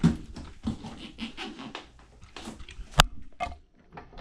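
Hands working on a washing machine to take a part off: irregular knocks, scrapes and rattles, with one sharp loud click about three seconds in.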